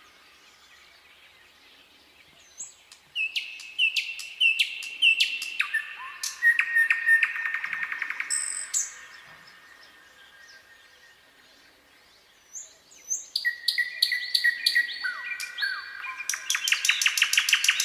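Nightingale singing in two phrases with pauses between. About three seconds in come repeated clear notes, about three a second, that run into a fast trill. Past the middle a second phrase of repeated notes speeds up into a rapid rattle near the end.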